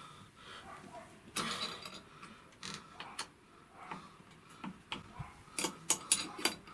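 Irregular sharp clicks and metallic clinks of hand tools being handled, with a short scrape about a second and a half in and a quick run of louder clicks near the end.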